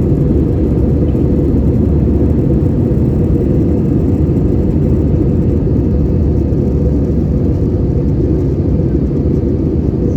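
Steady low rumble of an Airbus A320-200's engines and rushing air, heard inside the passenger cabin in flight.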